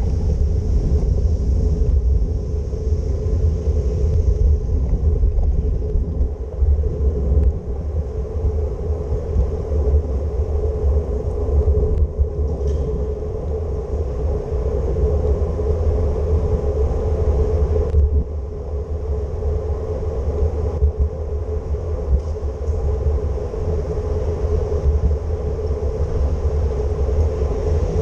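Steady low rumble of a bicycle ride along wet city streets, with a constant mid-pitched hum over it and a faint hiss above.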